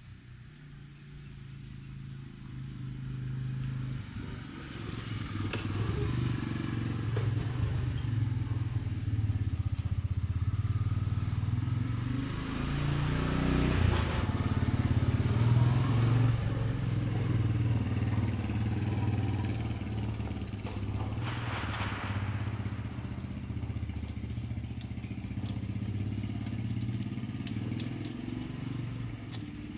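A motor running steadily with a low hum. It grows louder over the first few seconds and eases a little near the end.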